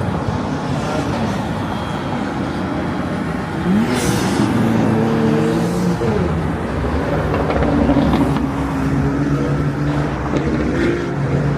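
Road traffic: a motor vehicle's engine running and passing over steady outdoor city noise, its pitch rising about four seconds in and then holding.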